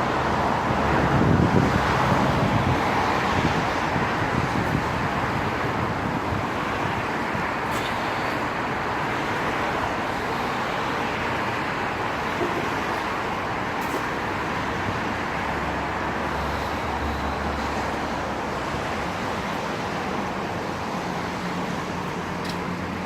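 Steady road traffic noise, tyres hissing on rain-wet tarmac, with a louder vehicle passing a second or two in.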